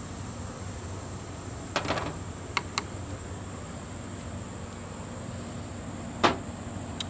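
Steady high insect chirring, like crickets, with a few short light knocks and taps: a double knock about two seconds in, two quick taps shortly after, and a sharper knock near the end.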